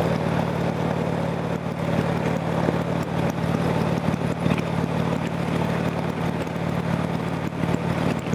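Harley-Davidson motorcycle's V-twin engine running at a steady cruise, heard from the rider's seat with wind and road noise over it.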